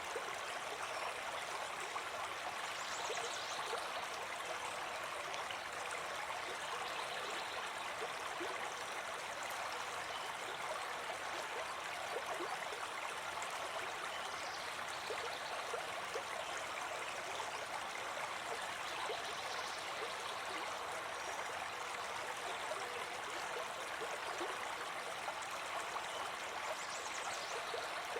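Small brook babbling: a steady rush of flowing water, flecked with small splashes and gurgles.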